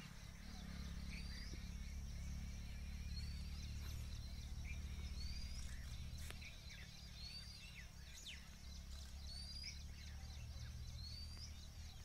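Small birds calling: a short, high, rising chirp repeated about every two seconds, with a few other quick calls between, over a steady low rumble.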